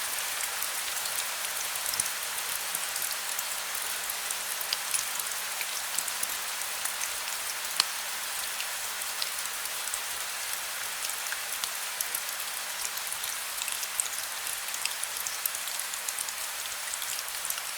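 Heavy rain falling steadily: an even hiss with many close raindrops ticking sharply throughout.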